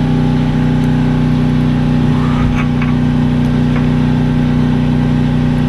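A steady, loud low hum of an idling engine, with a few faint clicks a little past two seconds in.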